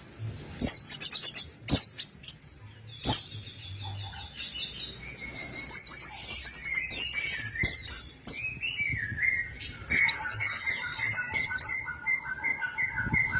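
Orange-headed thrush singing: bursts of rapid, high rattling trills repeated several times, with lower warbling phrases running under them in the second half. A few sharp clicks sound in the first three seconds.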